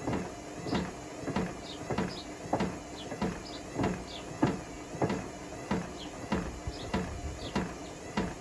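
Bricks knocking and thudding inside the drum of a Hotpoint Smart Tech WMFUG742 washing machine as it tumbles on a wool cycle, two or three knocks a second over a steady motor hum.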